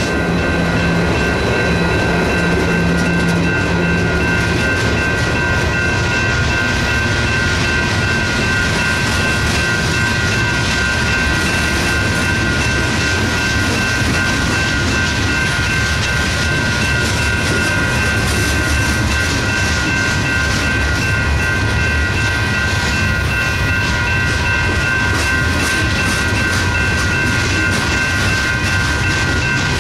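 Freight train passing a grade crossing: the diesel engine of the second SD70M locomotive hums for the first few seconds and fades, then hopper cars roll by with wheels clacking over the rail joints. Through it all several crossing-signal bells ring steadily together.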